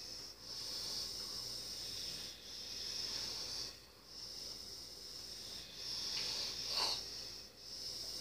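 Noisy, hissing breathing of a person asleep, in a steady rhythm with a short break every two seconds or so, and one brief louder snort near the end.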